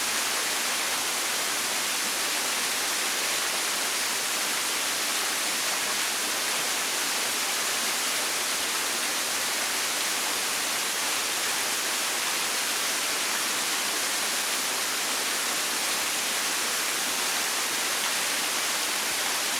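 Waterfall about 10 m high, its falling water making a steady, even hiss that is strongest in the higher range, with little low rumble.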